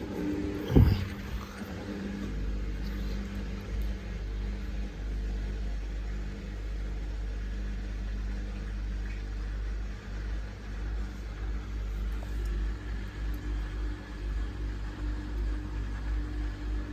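Samsung WF1700WRW front-loading washing machine running: a knock about a second in, then the drum motor's steady low hum, which turns uneven and pulsing in the last few seconds.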